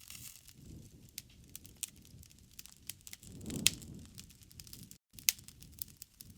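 Wood fire crackling: irregular small snaps and pops over a soft low rumble, with one louder pop about three and a half seconds in. The sound cuts out for a split second about five seconds in.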